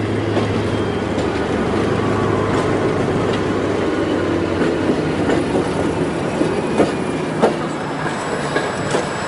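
Passenger train hauled by a diesel locomotive rolling past: a steady low engine hum and wheel rumble, with a few sharp clicks from the wheels near the end.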